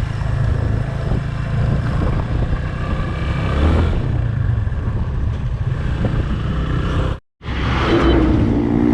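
Motorcycle engine running under way, mixed with steady wind and road noise. The sound cuts out completely for a moment about seven seconds in.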